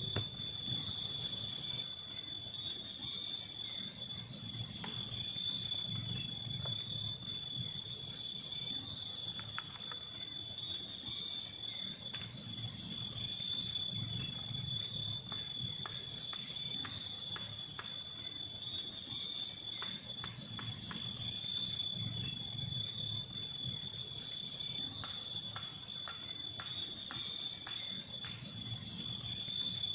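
A steady, high-pitched drone of forest insects, with faint, scattered clicks and taps over it.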